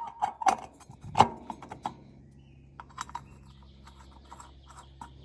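A few sharp knocks and clicks in the first two seconds, then faint scattered ticks over a low steady hum.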